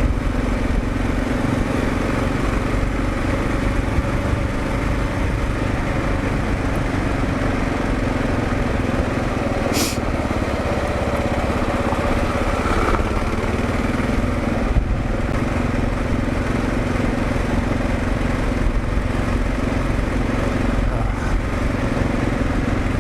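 Kawasaki KLR650's single-cylinder engine running steadily under way, with a brief sharp click about ten seconds in.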